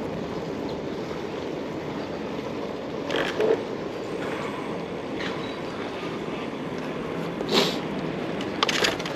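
Rental bicycle riding along a street, with a steady rush of wind and rolling noise on the camera microphone. A few short rattles come about three, five and seven and a half seconds in, and again near the end.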